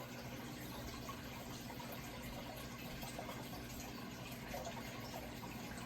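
Running water trickling steadily, with small splashy gurgles, over a faint low steady hum.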